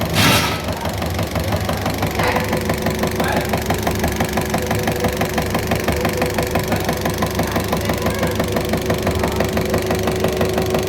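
Mercedes-Benz OM615 four-cylinder diesel engine idling with a steady, even diesel clatter, running on its freshly tested injection pump. A brief rush of noise comes right at the start, and a steady tone joins the clatter about two seconds in.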